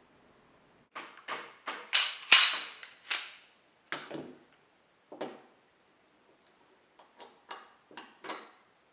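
A Glock 17 airsoft pistol (VFC/Stark Arms SAI) clacking mechanically: about fourteen sharp clicks at irregular spacing, bunched in two groups with a pause between them, the loudest a little over two seconds in.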